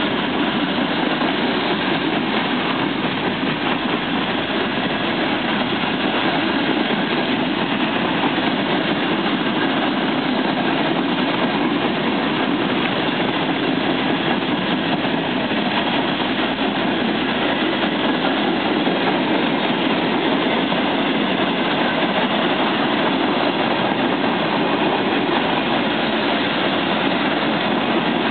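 CSX freight train rolling past at a steady speed: an even rumble of wheels on the rails with a steady engine drone underneath.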